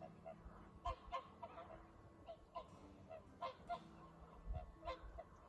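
A flock of whooper swans calling: many short, bugling honks from several birds, overlapping irregularly and fairly faint.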